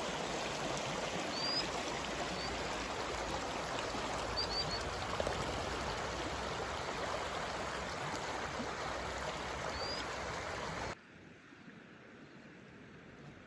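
Rushing water of a mountain stream or waterfall, a steady full-bodied rush with a few short high chirps over it. About eleven seconds in it cuts off abruptly to a much quieter hiss.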